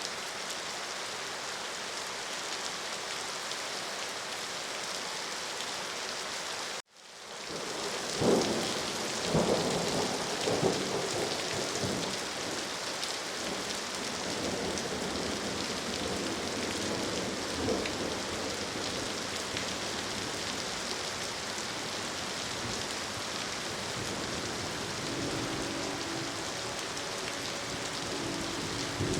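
Steady heavy rain. About seven seconds in it cuts out for a moment, then thunder cracks and rumbles loudly for several seconds, with another rumble later. A faint low steady tone comes in near the end.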